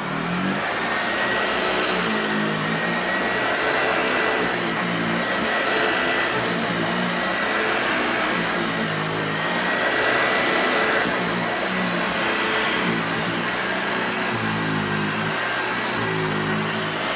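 Hoover Lightweight Model 1340 upright vacuum cleaner running steadily with a thin high whine. Its low tone shifts in a repeating pattern about once a second as it is worked back and forth.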